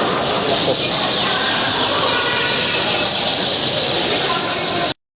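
Many caged songbirds singing at once: a dense, high chorus of rapid chirps and short downward whistles. It cuts off abruptly near the end.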